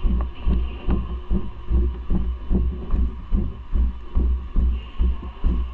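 Footsteps of someone walking briskly, jolting a body-worn action camera: deep thumps about two and a half times a second, with a faint steady tone running under them.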